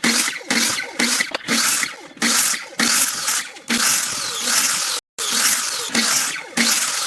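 Rhythmic rasping strokes, roughly two a second, each a short burst of harsh noise, with a brief complete cut-out about five seconds in.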